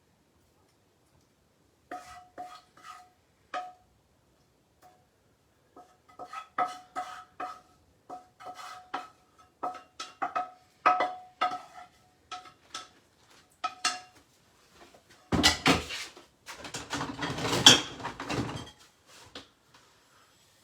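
A metal serving utensil clinking repeatedly against a pan or plate while food is served, each tap ringing briefly at the same pitch, followed about fifteen seconds in by a longer, louder scraping clatter.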